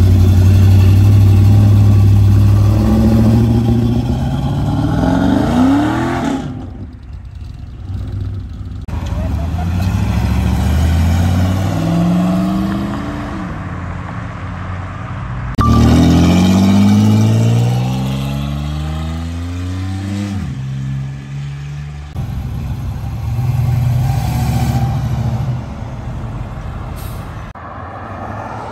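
Chevrolet Camaro engines accelerating hard away one after another, the revs climbing in rising sweeps several times; the first is a third-generation Camaro pulling out from the curb. The sound cuts abruptly between separate pullouts.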